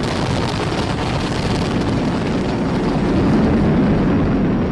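Falcon 9 rocket's first-stage Merlin engines firing during ascent: a loud, steady, deep noise that swells a little about three seconds in.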